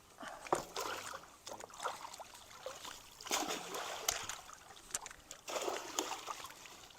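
Irregular splashing and sloshing of creek water as someone wades and moves through it.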